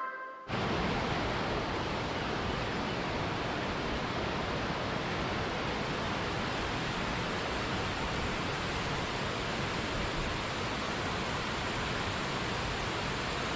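Waterfall rushing: a steady, even roar of falling water that sets in as background music cuts off about half a second in.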